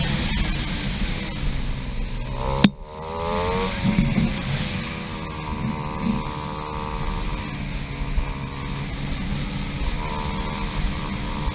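KTM 500 EXC dirt bike's single-cylinder four-stroke engine running under a rider, its pitch rising and falling with the throttle. A sharp click about two and a half seconds in is followed by a quick rise in revs, and there is wind hiss in the first second or so.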